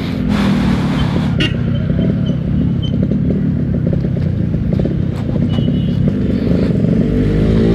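Yamaha RX-King 135 cc single-cylinder two-stroke engine running under way, the revs picking up at the start and then holding a steady pull, easing briefly near the end before pulling again.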